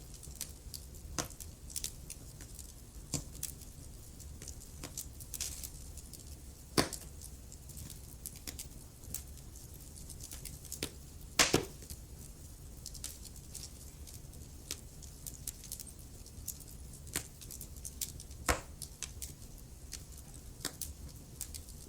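Wood fire burning in a fireplace: irregular crackles and pops over a low steady rumble, with three sharper pops, the loudest about eleven seconds in.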